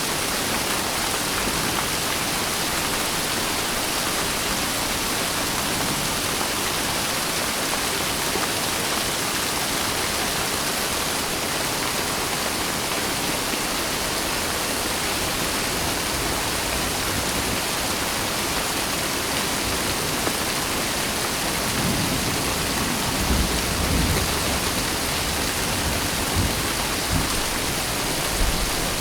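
Steady heavy rain falling, an even hiss. In the last quarter, a few low rumbles of distant thunder roll in under it.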